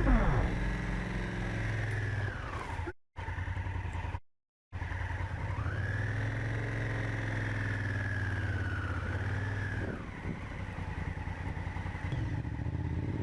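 Enduro motorcycle engine running at low revs, the revs rising and easing off slowly; the sound cuts out completely twice, briefly, a few seconds in.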